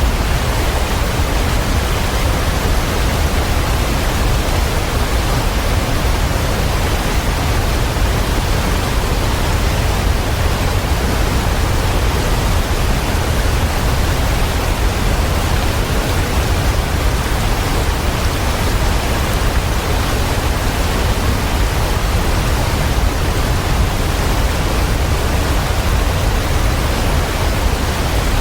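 Waterfall: a steady, unbroken rush of falling water with a deep low rumble underneath, unchanging throughout.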